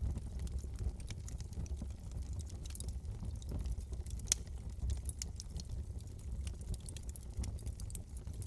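Wood fire burning in a fireplace, crackling and popping irregularly over a steady low rumble of flame, with one louder pop about four seconds in.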